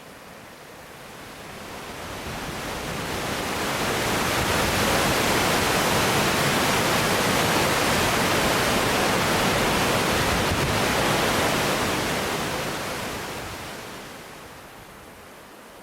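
Waterfall rushing. It swells up over the first few seconds, holds as a steady roar, then fades away near the end.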